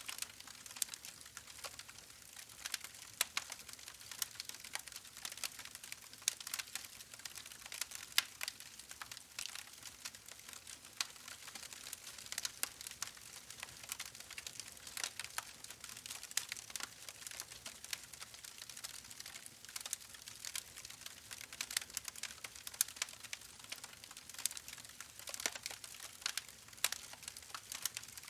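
Wood fire burning in a fireplace, crackling continuously with irregular sharp pops and snaps.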